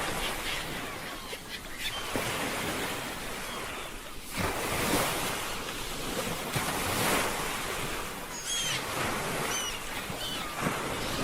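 Ocean surf washing in, with two louder surges of waves a few seconds apart. Over the surf, a bird gives several short high calls in the latter part.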